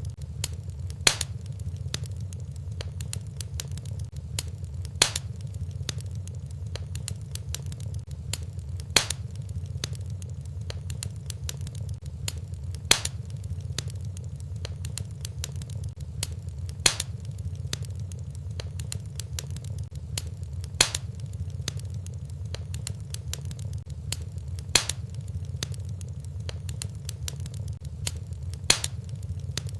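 Fireplace fire crackling: many small crackles over a low steady rumble, with a louder sharp pop about every four seconds.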